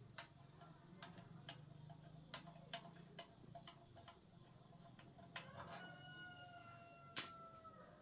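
Faint scattered clicks and light taps. About six seconds in, a single long call starts, held for about two seconds with a slowly falling pitch.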